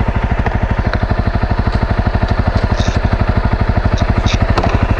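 Single-cylinder four-stroke trail bike engine idling steadily, an even low thumping at about ten beats a second.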